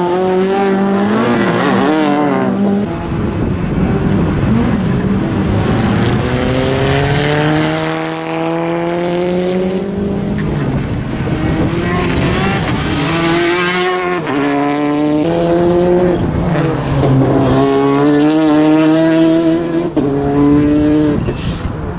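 Citroen DS3 R3 rally car's turbocharged four-cylinder engine revving hard. The pitch climbs and drops again and again as it shifts gears and brakes for the slalom, with tyre squeal.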